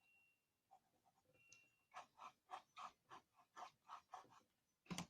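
Graphite pencil scratching on paper in a quick run of short strokes, roughly three a second, shading a tree. A single sharp tick comes near the end.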